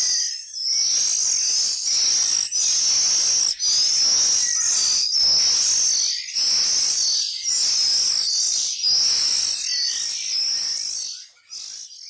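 Oriental magpie-robin nestlings begging: a steady run of shrill, raspy calls in short bursts with brief gaps, as the parent feeds them. The calls fade out near the end.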